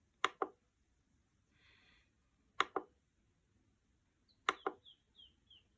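Small button clicks in pairs, each a quick press and release, four times, as settings are stepped through on a multi-effects pedal. A few short, high, falling chirps sound in the background near the end.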